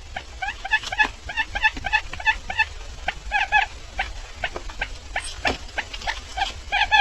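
Bird calling in a rapid series of short, repeated chirping notes, coming in clusters, over a steady low hum.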